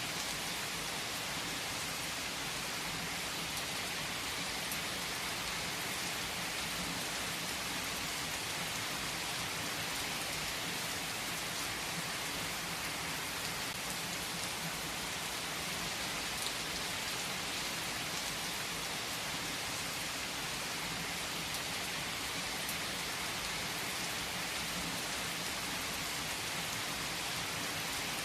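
Steady, even rain with scattered drop ticks, falling without let-up.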